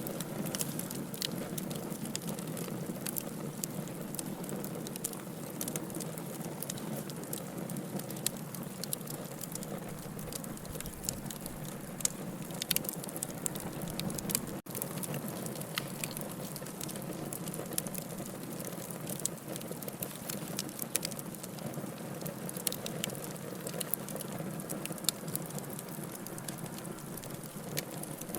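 Campfire burning: wood crackling and popping in irregular sharp snaps over a steady rush of flame.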